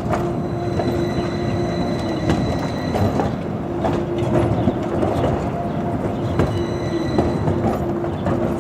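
71-301 tram cars running on the rails, with knocks from the wheels over the track and a steady whine that drops out in the middle and comes back for the last few seconds.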